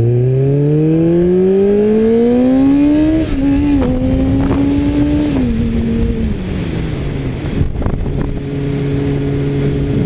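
Kawasaki ZZR600's inline-four engine pulling away: its note rises steadily for about three seconds, drops a step at a gear change and holds, then falls back over a few seconds to a steady lower note as the bike eases off.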